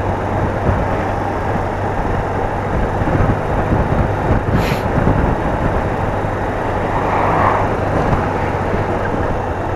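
BMW R80RT's air-cooled flat-twin engine running steadily while riding, with a constant rush of wind and road noise.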